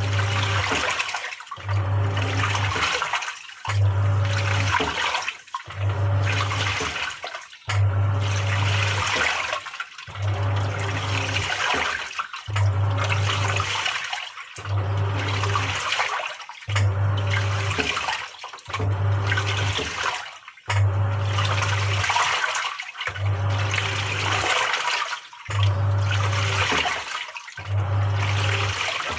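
Samsung 6.5 kg top-loading washing machine agitating during its wash: the motor hums as the pulsator churns the water in strokes of about a second and a half. Each stroke is followed by a brief pause as the pulsator reverses, about every two seconds.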